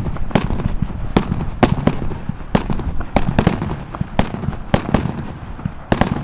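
Fireworks display: about ten sharp bangs and cracks from bursting aerial shells at irregular spacing, over a continuous low rumble.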